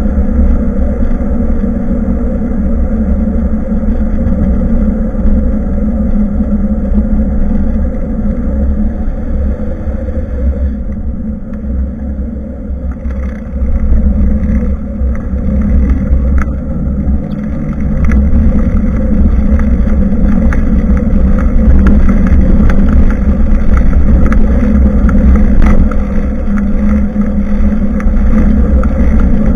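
Wind buffeting the microphone of a bicycle-mounted action camera while riding, with a steady road rumble and small rattles from bumps. It quietens briefly about a third of the way in, then grows louder.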